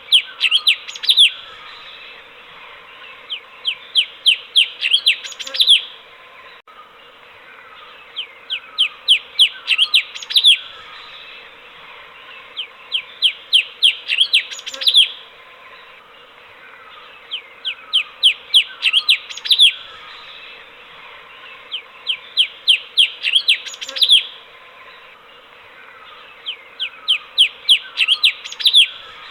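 Cucak cungkok bulbul singing its chattering phrase: a quick run of sharp, sweeping notes ending on a higher note, repeated the same way about every four and a half seconds over a steady background hiss.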